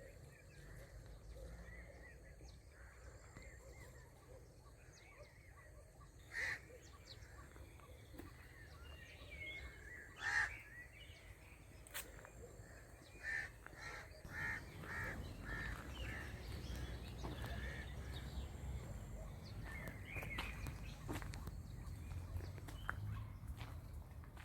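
Park birdsong: birds calling outdoors, with single calls now and then and a quick run of about five calls a little past halfway, over a steady low rumble.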